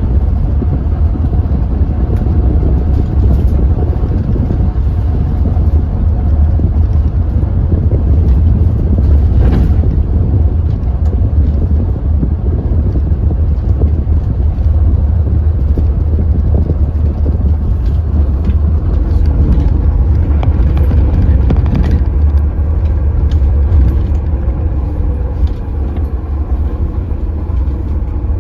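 Engine of a Hyundai New Super Aero City CNG city bus running as the bus drives, a loud, steady low drone; it eases off slightly near the end.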